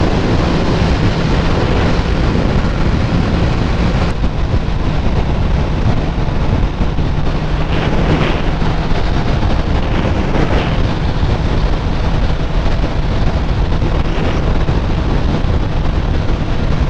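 Wind rushing over a helmet-mounted microphone while a Suzuki sportbike runs at a steady road speed, its engine a low, even hum under the wind.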